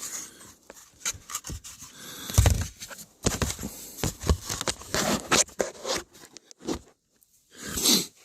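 Hand work on the dashboard's plastic trim and metal brackets: irregular clicks, knocks and scraping as parts are pried and wiggled loose, with the loudest knock about two and a half seconds in and a louder rush of noise near the end.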